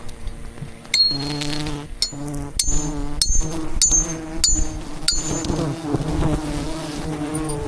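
A swarm of wild honey bees buzzing as a steady low hum. Between about one and five seconds in, about seven sharp metallic knocks ring out, roughly two a second.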